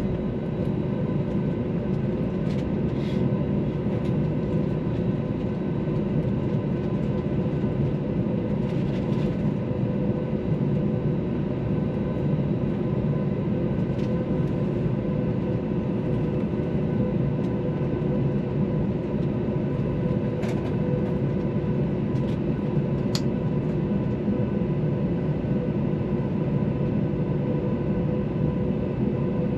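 Airbus A321 cabin noise from a window seat: a steady jet-engine drone and rush of air with a constant whine of several held tones, plus a few faint clicks.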